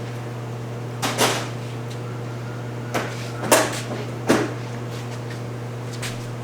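Five sharp clicks and clunks of hand tools at work on the car: two about a second in, then three between three and four and a half seconds. A steady low hum runs underneath.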